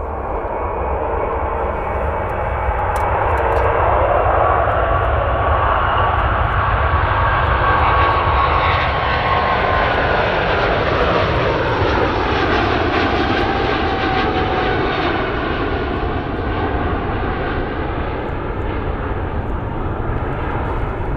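Airbus A350-900's Rolls-Royce Trent XWB jet engines at takeoff power as the airliner passes. The noise swells to its loudest a few seconds in, its whining tones drop in pitch about ten to twelve seconds in, and then it slowly fades away.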